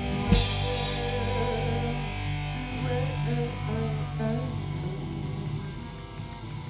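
Live rock band ending a song: a loud final hit just after the start, then electric guitar and bass holding their last notes and ringing out, slowly fading.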